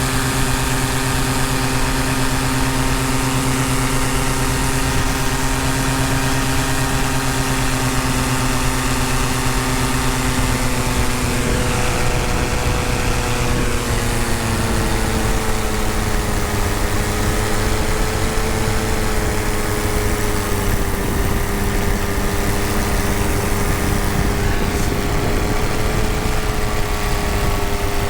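Tandem paramotor engine and propeller running steadily in flight. About twelve seconds in the engine note eases slightly lower and holds there.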